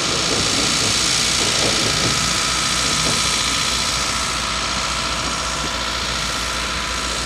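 50 cm narrow-gauge train running steadily, heard from an open passenger car: wheels rumbling on the rails, with the engine running underneath.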